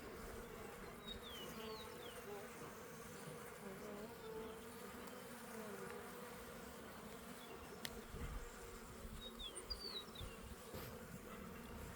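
Honeybees from an opened hive humming in a steady, faint drone, with a few short high chirps and a single click over it.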